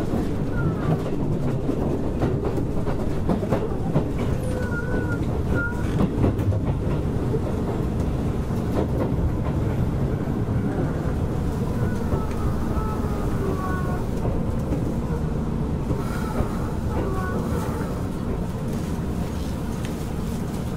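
Keisei 3400 series electric train heard from inside the passenger car, running with a steady rumble and wheels clicking over rail joints, plus a few short high squeals. The train is drawing into Keisei Narita station.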